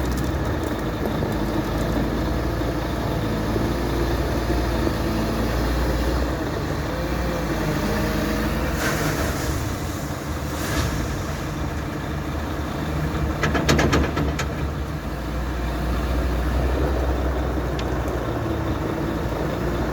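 Caterpillar 930K wheel loader's diesel engine running steadily, its pitch shifting slightly now and then, with a few short noisy bursts and a rattling clatter about 14 seconds in, the loudest moment.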